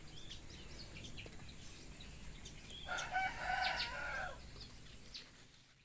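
A rooster crows once, about three seconds in, over scattered small bird chirps; the sound fades out near the end.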